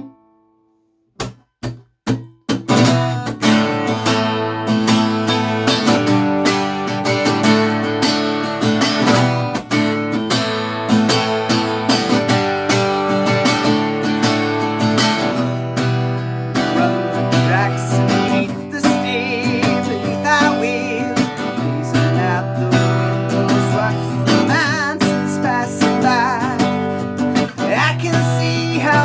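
Acoustic guitar being strummed: three separate strokes, then steady rhythmic strumming from about two and a half seconds in.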